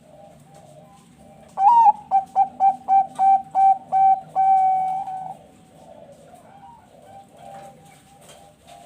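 Zebra dove (perkutut bangkok) song. A loud opening coo is followed by about seven short, evenly spaced coos and a longer held final note, with other doves cooing faintly behind throughout.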